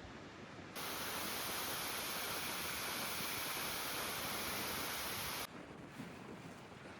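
Steady rushing water of a waterfall in spate, switching on abruptly about a second in and cutting off just as suddenly after about five seconds, with a quieter outdoor hiss either side.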